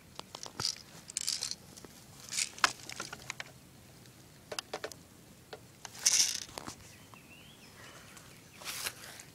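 Scattered sharp clicks and short rustling, crinkling noises, like objects being handled.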